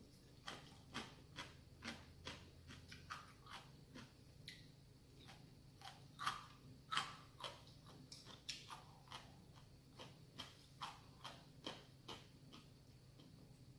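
Someone eating ramen noodles close to the microphone: a string of soft, short mouth clicks and chewing smacks, about two or three a second.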